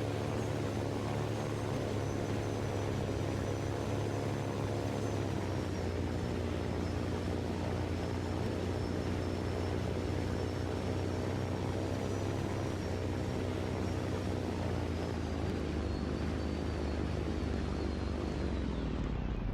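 A steady engine drone with a faint high whine that slowly falls in pitch.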